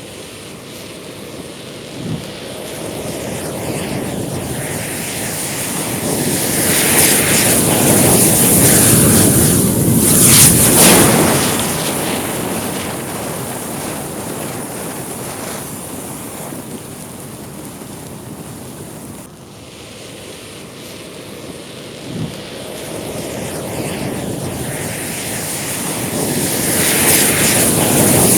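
Thousands of match heads flaring in a chain reaction: a loud hiss of burning with crackling that swells to a peak and dies down, then builds up again. A single sharp pop comes about two seconds in, and another about two-thirds of the way through.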